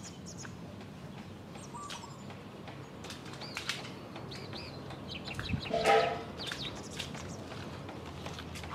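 Outdoor ambience with small birds chirping now and then, and one short, louder call about six seconds in.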